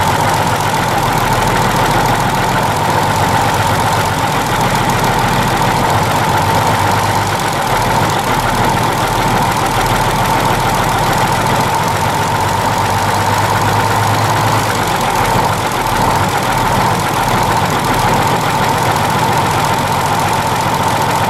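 Detroit Diesel 6-71 inline-six two-stroke diesel in a 1943 Higgins landing craft, running steadily on its first run after 30 years idle and a rebuild of its valves and fuel injectors. A low drone carries a steady high whine.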